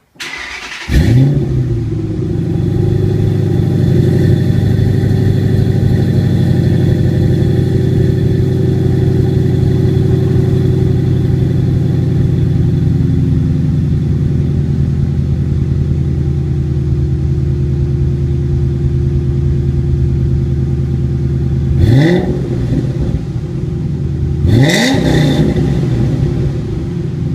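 2008 Mustang's exhaust through Kooks long-tube headers, a Kooks catted x-pipe and Flowmaster American Thunder mufflers. The engine starts about a second in with a brief flare in revs, settles into a steady idle, then is blipped twice near the end.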